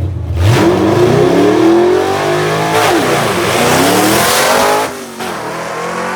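Drag car launching hard off the line: the engine revs steeply upward, drops in pitch at a quick power shift about three seconds in, then climbs again before falling away near the end as the car runs downtrack.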